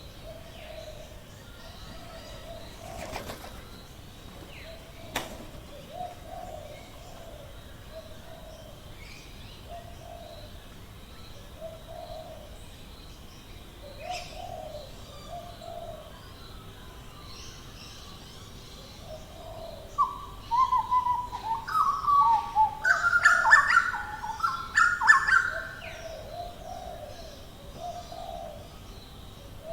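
Australian bush birds: a low cooing call repeats every second or two throughout. A loud run of rapid, jumping calls from another bird comes about twenty seconds in and lasts some six seconds.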